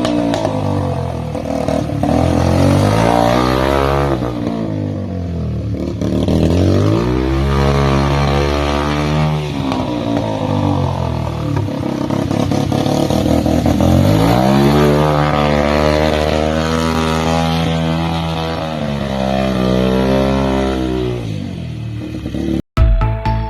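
Yamaha TTR-125L single-cylinder four-stroke dirt bike engine in a racing lawn mower, running hard with the throttle opened and closed over and over, its pitch climbing and dropping several times. It cuts off suddenly near the end.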